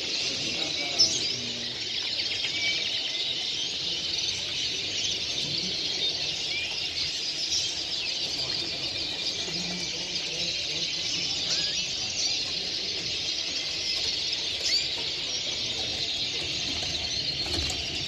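Many caged songbirds chirping and trilling at once in a steady, dense, high-pitched chorus.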